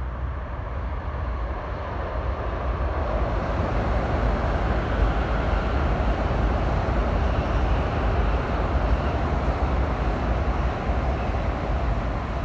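Shinkansen bullet train passing at speed on an elevated viaduct: a steady rushing noise that swells a few seconds in and eases near the end, over a deep low rumble.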